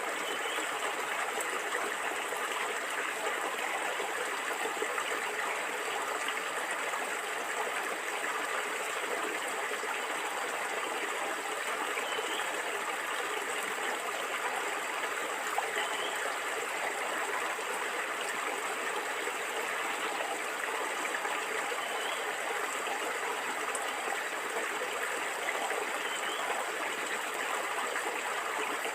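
Shallow stream of water flowing and gurgling steadily.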